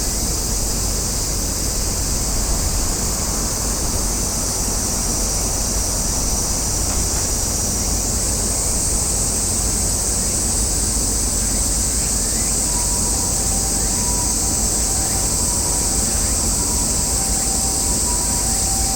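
A steady, high-pitched cicada chorus over a low rumble. About halfway through, the main buzzing pitch steps up. From about two-thirds of the way in, a faint two-tone beeping alternates back and forth.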